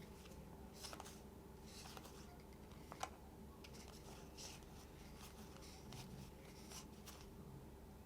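Faint handling sounds of game cards being leafed through: soft rustles and light ticks, one slightly sharper tick about three seconds in.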